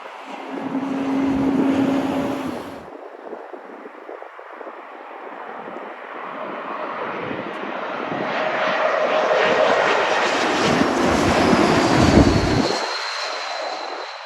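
Jet airliner's engines as it passes: the noise builds to a peak about twelve seconds in, then eases off while a high whine slides down in pitch. A shorter loud stretch at the start cuts off suddenly.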